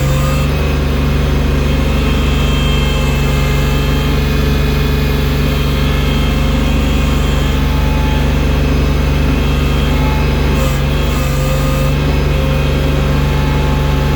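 Engine of a bucket loader running steadily while it moves heavy snow, a constant hum with no clear changes in speed.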